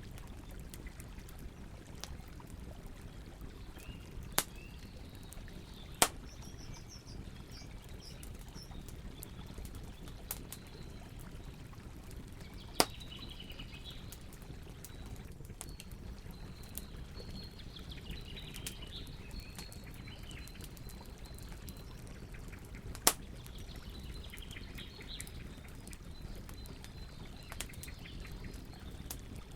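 Campfire crackling, with a few sharp pops standing out over a steady low rush. Small birds chirp on and off.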